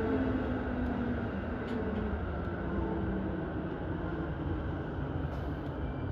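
E233-series electric commuter train running on the line, heard from on board: a steady low rumble of wheels on rail with faint motor whine tones that shift in pitch.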